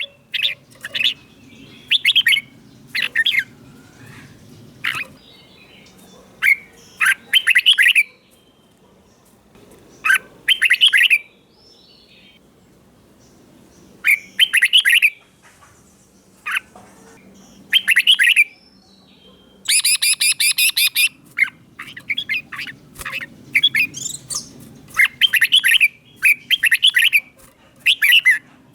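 Red-whiskered bulbul singing: short phrases come every second or two, with a pause of a few seconds near the middle.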